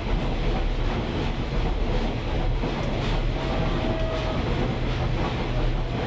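Caboose rolling along the track: a steady rumble of steel wheels on rail with a clickety-clack over the rail joints, and a brief squeal partway through.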